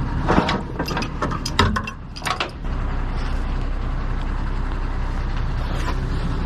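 Heavy truck engine running steadily, with a quick series of metallic clicks and clanks in the first couple of seconds.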